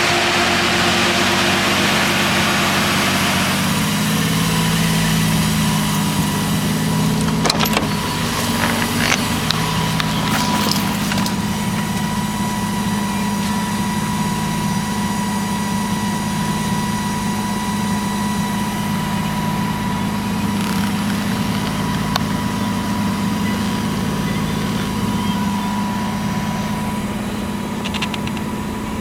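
A 1JZ single-turbo straight-six engine, swapped into a 1987 Toyota Cressida, idling steadily. There are a few sharp clicks roughly eight to eleven seconds in.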